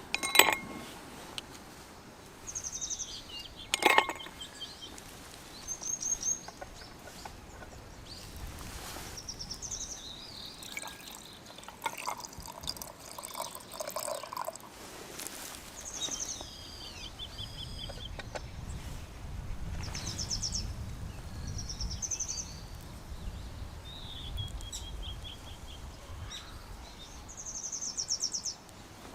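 Wild birds calling again and again in short high chirps and trills. There are two sharp ringing clinks, one near the start and one about four seconds in.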